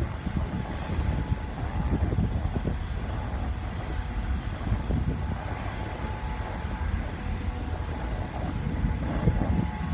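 Gusty wind buffeting the microphone: a continuous low rumble that swells and drops irregularly.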